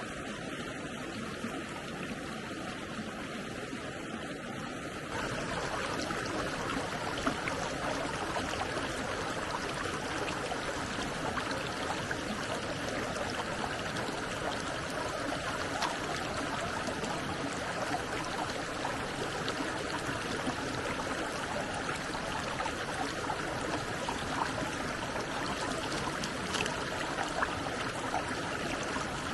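Stream water flowing in a steady rush, which gets louder about five seconds in.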